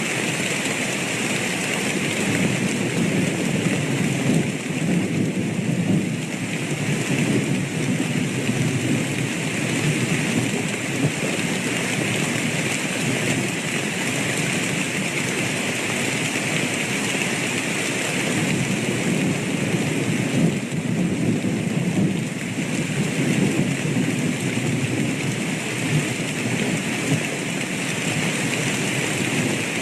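Steady heavy rain falling, with low rolls of thunder swelling and fading at times.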